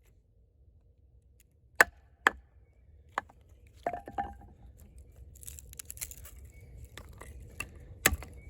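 A wooden baton knocking on the spine of a fixed-blade camp knife, driving the blade through a piece of firewood: a few sharp separate strikes, the loudest two about two seconds in and another near the end, with quieter crackling between them.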